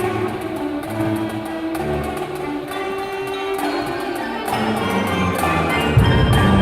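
High school indoor winds ensemble playing live, wind instruments holding and changing notes over light percussion clicks. The music swells, and about six seconds in a loud low drum entrance comes in.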